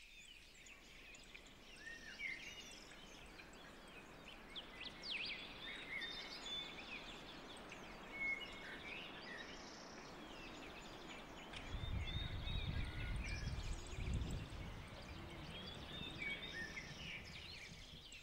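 Small birds chirping and trilling, many short calls overlapping, over faint outdoor hiss. About two-thirds of the way through, a low rumble comes in for a few seconds.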